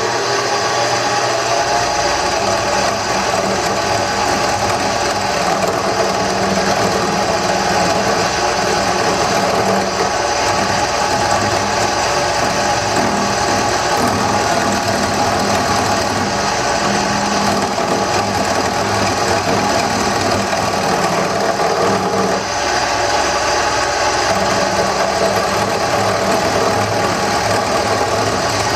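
Wood lathe running steadily while a turning tool cuts the spinning wooden handle blank, taking chips off.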